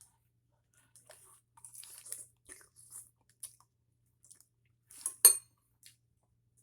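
Close-up eating sounds: a run of small crunches and wet clicks as food is chewed, with one sharp clack of a utensil or dish about five seconds in.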